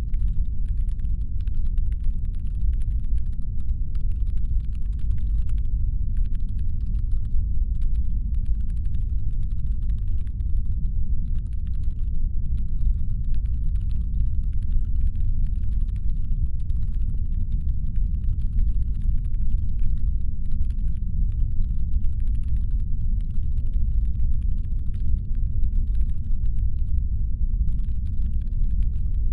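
Deep, steady brown-noise rumble standing in for a spaceship's engine hum. Over it come faint patches of light, irregular clicking that stop briefly every few seconds.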